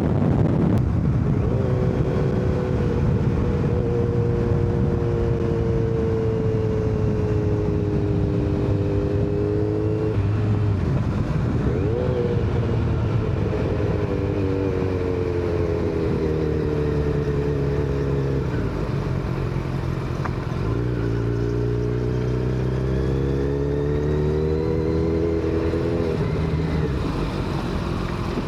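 Sport motorcycle engine running steadily at highway speed over wind rush, its pitch drifting slowly up and down with the throttle, with a brief dip and rise about ten seconds in.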